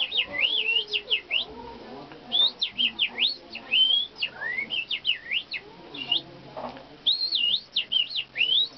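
Human mouth whistling imitating birdsong: quick high chirps that sweep up and down, shaped by the lips and tongue, in four bursts with short pauses between them.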